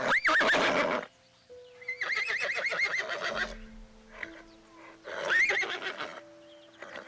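Horse whinnying three times, each a quavering neigh about a second long, over calm background music.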